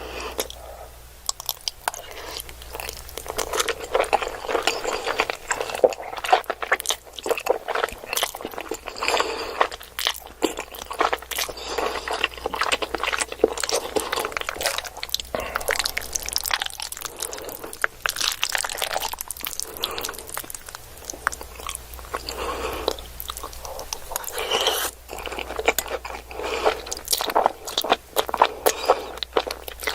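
Close-miked eating sounds: a person biting and chewing crunchy food, with a steady stream of irregular crunches and crackles.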